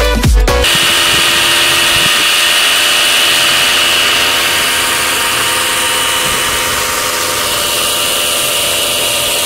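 An electric power tool motor running steadily at constant speed, with a steady high whine.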